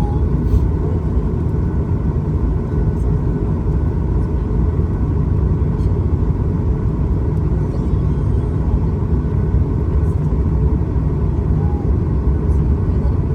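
Jet airliner's steady low rumble of engines and rushing air, with a faint steady whine above it.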